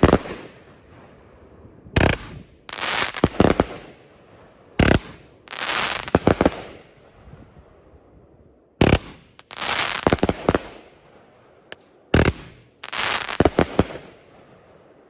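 Hardcore Pyro G.F.E. 500-gram angled firework cake firing shots in turn. Four times, about every three to four seconds, a sharp bang is followed within a second by a longer, fading burst of noise.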